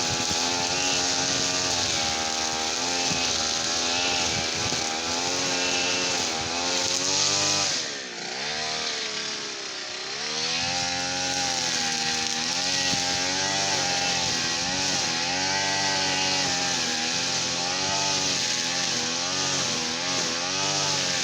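Petrol brush cutter engine running at speed, its pitch wavering up and down. About eight seconds in the engine speed drops and then climbs back up over the next couple of seconds.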